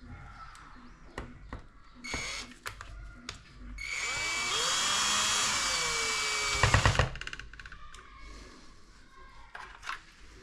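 Small cordless power screwdriver running: a brief burst about two seconds in, then a longer run of about three seconds that ends in a quick series of clicks.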